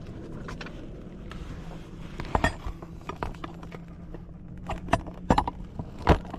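Small metal parts of an old faucet clinking and clicking as they are handled and set down, in several sharp knocks, the loudest near the end, over a steady low hum.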